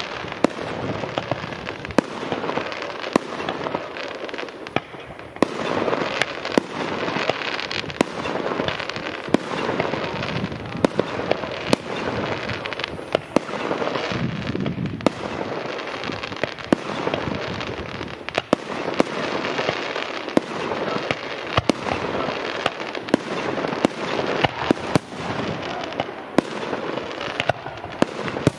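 New Year's fireworks going off in large numbers: a dense, continuous crackle and hiss with many sharp bangs from rockets and firecrackers at irregular intervals.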